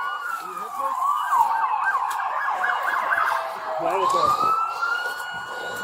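Emergency vehicle siren wailing, its pitch sliding slowly up and down, one long sweep after another.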